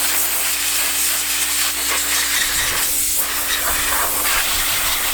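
Pressure washer spraying water onto the degreased engine cases: a loud, steady hiss of the jet over the low, even hum of the washer's motor.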